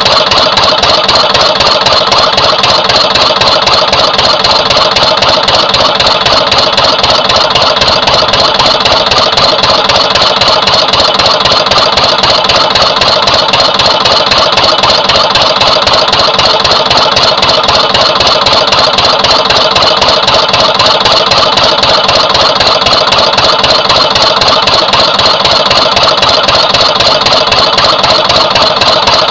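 Twin-cylinder Lister CS slow-speed diesel stationary engine running steadily with an even beat of firing strokes. Its fuel pumps have been balanced, but the owner finds cylinder two still slightly weaker and suspects its injector's spray pattern.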